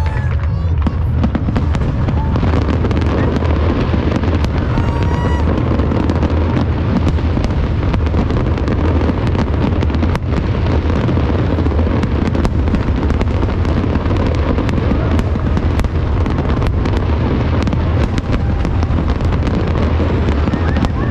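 Fireworks display: a continuous run of booms and sharp crackling bangs over a constant heavy low rumble.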